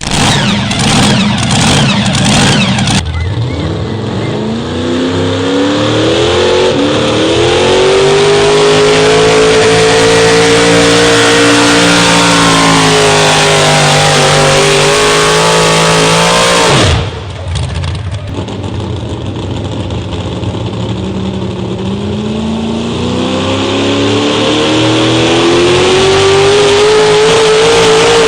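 Competition pulling engine at full throttle down the track, its pitch climbing and then holding high and loud for several seconds. About seventeen seconds in the sound cuts abruptly to another pulling engine, quieter at first, whose pitch climbs again toward the end.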